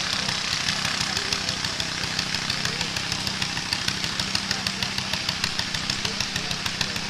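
Small pulling tractor's engine running steadily under load, with a rapid, even exhaust beat.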